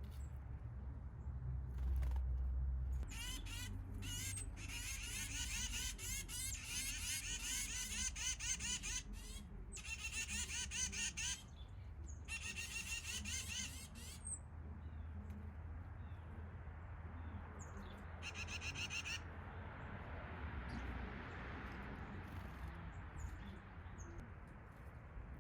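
Backyard songbirds calling: dense bursts of quick repeated chirping and squawking notes through the first half, then one short burst later on, over a steady low rumble.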